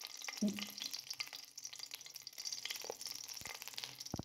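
Small stuffed eggplants sizzling quietly in a little hot oil in an aluminium pan, with light crackles and clicks of metal tongs lifting them out. The sound cuts off abruptly just before the end.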